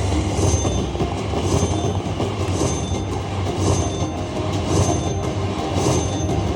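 Slot machine game sounds over a dense casino-floor din, with a high chime repeating about once a second.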